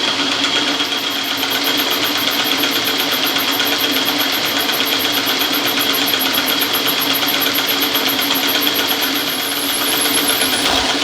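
Lathe running steadily while turning a part, its motor giving a constant hum, with a faint high-pitched rapid pulsing that stops shortly before the end.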